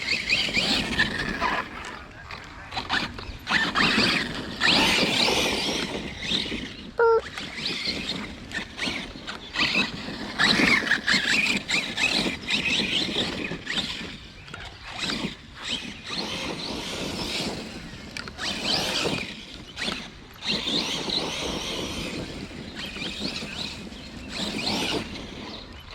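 Arrma Kraton 6S electric RC monster truck driven hard on wet ground: its brushless motor and drivetrain whining in repeated throttle bursts that rise and fall every second or two, with tyre noise.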